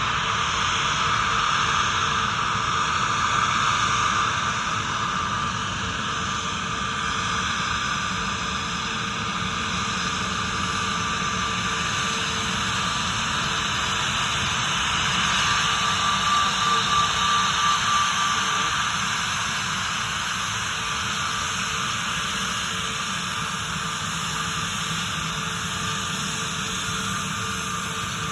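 Jet engines of a British Airways Airbus A321 airliner: a steady rushing noise with a high whine, swelling a little about sixteen seconds in.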